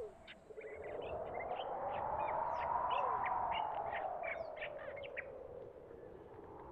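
Many short bird chirps and calls, with a few short falling calls lower down. Under them runs a smooth low tone that swells to a peak about halfway through and then falls away.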